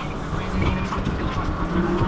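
Steady rumbling wind-and-road noise on the microphone of a moving bicycle, with a few faint steady tones underneath.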